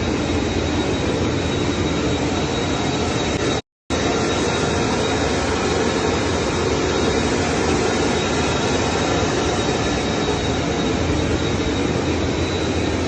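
Steady jet aircraft noise: a dense even rush with a thin, high, steady whine over it, cut off completely for a moment about four seconds in.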